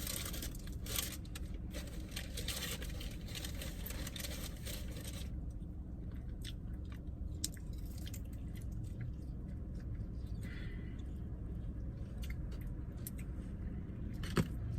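Close-miked chewing and crunching of food during a mukbang. The crunches come thick and fast for about the first five seconds, then thin out to occasional chewing sounds.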